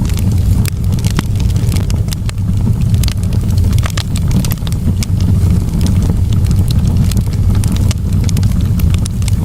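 Campfire burning, with frequent irregular crackles and pops over a steady low rumble.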